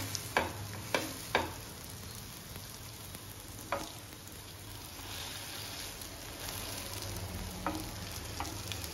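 Beetroot kebabs sizzling on a nonstick tawa in very little oil. Several short knocks of a wooden spatula and spoon against the pan as the kebabs are flipped and pressed: three in the first second and a half, one about halfway through, two near the end.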